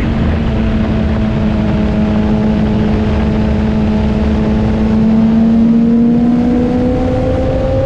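Motorcycle engine running at a steady cruise, its pitch rising a little near the end as it speeds up, over a low rumble.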